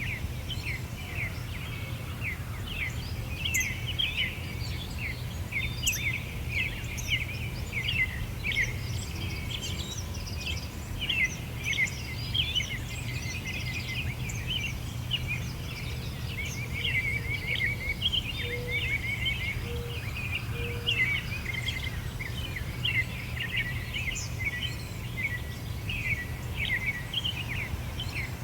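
Summer birdsong: many small birds chirping and twittering in quick, overlapping calls, over a steady low rumble. A few short, lower notes come in about two-thirds of the way through.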